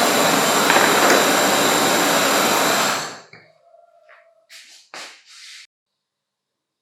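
An electric power tool running steadily with a high whine, which cuts off abruptly about three seconds in. A few faint short clicks and scrapes follow.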